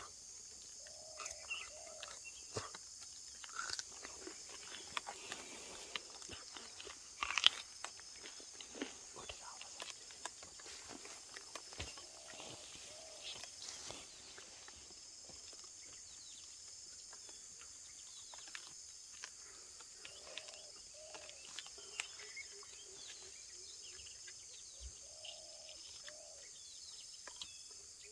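A steady high-pitched insect drone, with scattered short bird chirps, small clicks and a few soft calls over it.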